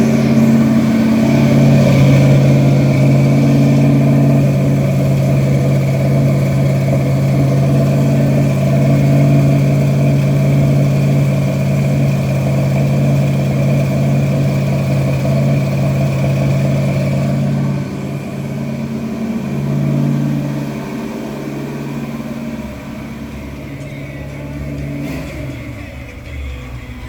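Car engine running at a steady fast idle after a cold start. After about seventeen seconds it gets quieter and unsteady, and near the end its pitch drops as the idle comes down.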